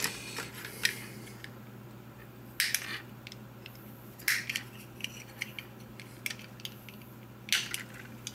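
Scattered small sharp clicks and taps of a flathead screwdriver prying the plastic covers off Roomba bumper sensors, the covers snapping loose, with a few louder clicks about a third, a half and nine-tenths of the way through. A low steady hum runs underneath.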